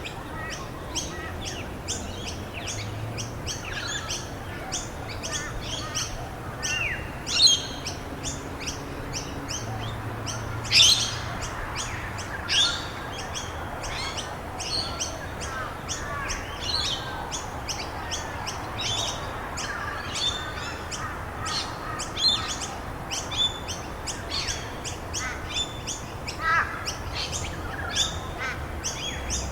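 Many small birds chirping in a dense, continuous chorus of short, high calls, with a few louder sharp calls mixed in. A steady hiss runs underneath.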